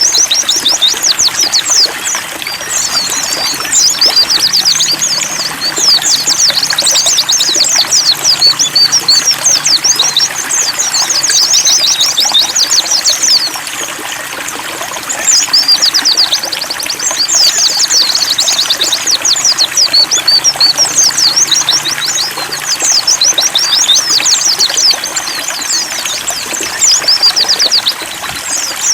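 Several white-eyes (pleci) singing fast, high twittering songs in long bouts, over trickling water. The song dips briefly about halfway through and again near the end.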